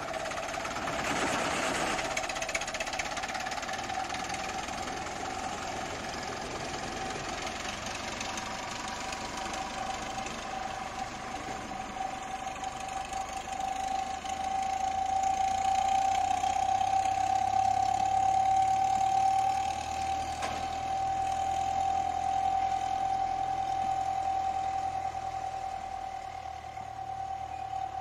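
Narrow-gauge train running, with mechanical clatter and a steady high whine that rises slightly in pitch and grows louder around the middle. A low rumble comes in about halfway.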